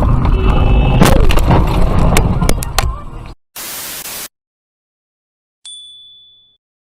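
A vehicle crash: loud rumbling with a run of sharp knocks and crunches for about three seconds. Then a short burst of static and, a moment later, a single high ding that fades.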